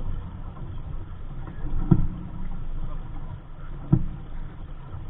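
Wind rumbling on the microphone aboard a small sailing dinghy under way, with two sharp thumps about two seconds apart.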